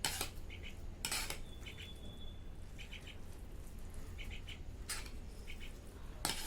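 Eating utensils clinking and scraping against a dish a few times: once at the start, about a second in, about five seconds in and again near the end.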